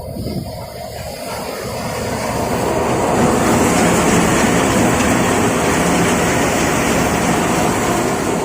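Loud, steady machinery noise that builds over the first three seconds and then runs evenly.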